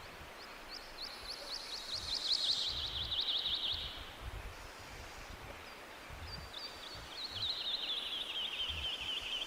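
A songbird singing twice, each song a quick run of short down-slurred notes that speeds up and drops in pitch, lasting about three and a half seconds, over a steady outdoor hiss.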